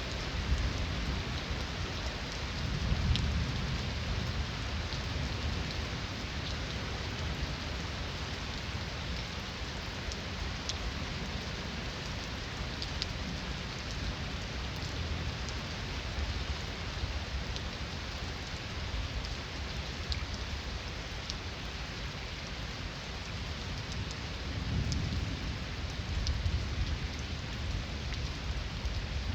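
Steady heavy rain falling on surfaces, with scattered drop ticks, and distant thunder rumbling low twice: once a few seconds in and again near the end.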